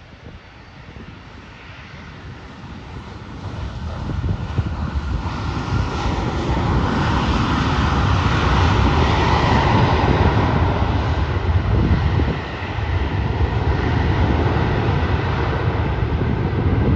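Aircraft engines of a plane passing near the airfield, growing steadily louder over the first several seconds and then holding a loud, steady noise.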